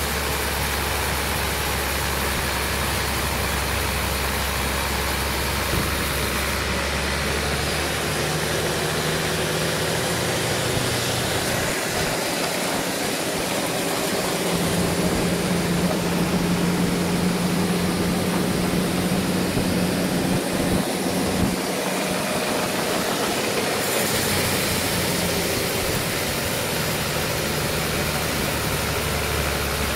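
Engine-driven sawmill running steadily. Partway through, its low hum gives way to a higher steady tone that grows louder for several seconds, then settles back to the low hum near the end.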